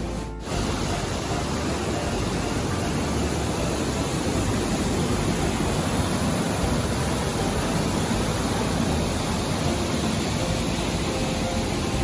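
Waterfall in flood after heavy rain: a steady, dense rush of fast-moving water crashing down, with no let-up.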